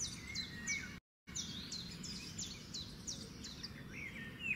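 Birds chirping in the background, a quick run of short high falling chirps about three a second, over a low steady hum. The sound cuts out completely for a moment about a second in.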